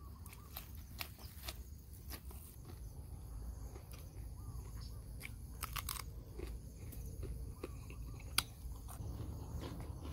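Close-up biting and chewing of crunchy food, raw cucumber and sauced dung beetles, with scattered crisp crunches and one sharper crunch about eight seconds in.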